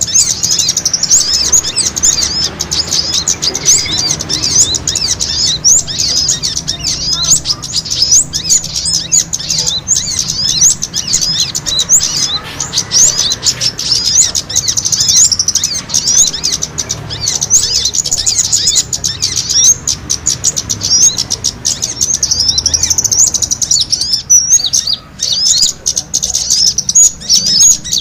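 Many small birds chittering in a dense, rapid stream of high chirps, the agitated calling of small birds squabbling and fighting, played as a bird-trapping lure call.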